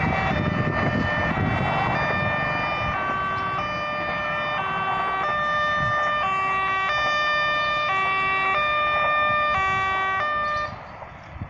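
A tune of electronic chime tones played over a railway station's loudspeakers, each note or chord held for about two-thirds of a second, over a low rumble. The tune stops abruptly near the end.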